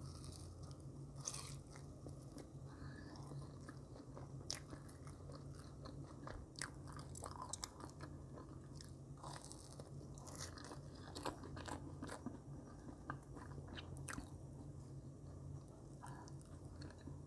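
Close-up mouth sounds of a woman biting and chewing soft marshmallows: faint wet clicks and smacks scattered throughout, over a steady low hum.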